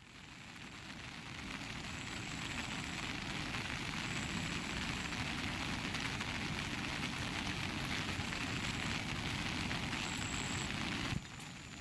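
Steady rain falling, a continuous rushing hiss that swells over the first couple of seconds and cuts off abruptly near the end.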